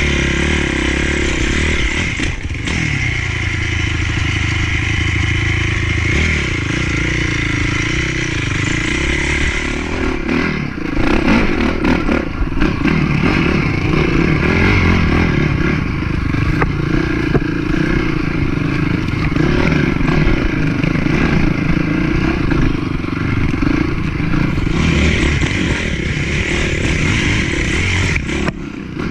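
Motocross bike engine running as it is ridden, its revs rising and falling with the throttle. The engine gets louder and choppier about ten seconds in.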